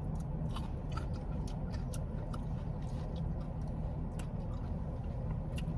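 Someone chewing and eating fries, with scattered small clicks and crunches over a steady low hum.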